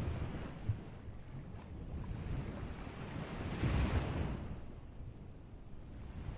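Ocean surf: a wave breaks and washes in about three and a half seconds in, its hiss swelling and then fading, over a low rumble of wind buffeting the microphone.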